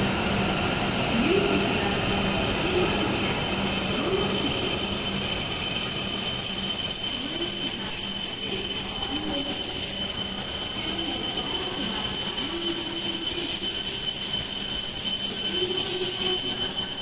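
E7-series Shinkansen train pulling in and braking to a stop, with a steady high whine over its running noise. The noise grows gradually louder, then falls away sharply as the train halts at the very end.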